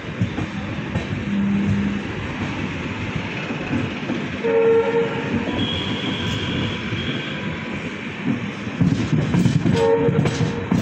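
Indian Railways passenger train running at speed, its wheels clattering over the rail joints. The locomotive horn sounds about four and a half seconds in and again briefly near the end.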